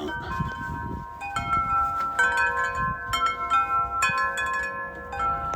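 Wind chimes ringing, several tuned tones struck irregularly and overlapping as they sustain, then cut off suddenly near the end.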